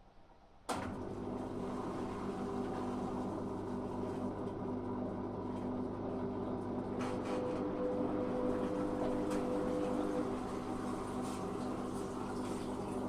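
Zanussi FA623 washing machine starting up abruptly a moment into the sound, then running with a steady hum and water moving through it, as the machine's pump or water fill runs.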